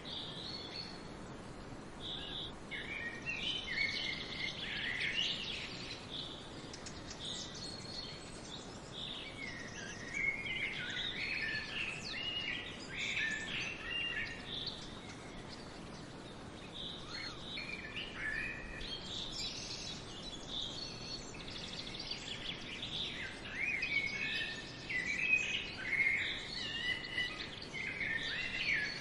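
Small birds chirping in clusters with short lulls, over a steady outdoor background hiss.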